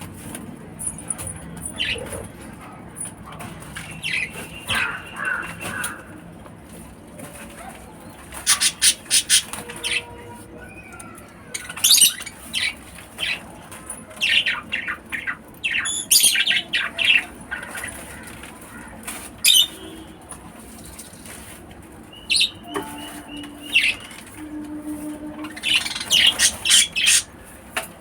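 Lovebirds giving short, shrill chirps, many in quick clusters with pauses between them.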